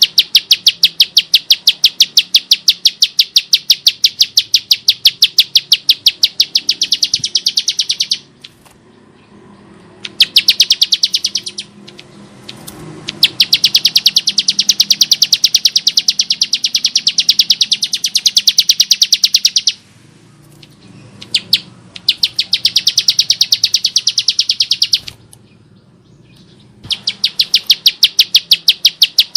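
Bar-winged prinia (Prinia familiaris) singing a harsh, rapid rattle of clicking notes. It comes in five long bouts separated by pauses of a second or two.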